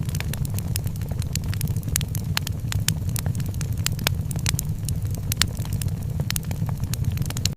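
Wood fire crackling in a fireplace: irregular sharp pops and snaps several times a second over a steady low rumble of the burning fire.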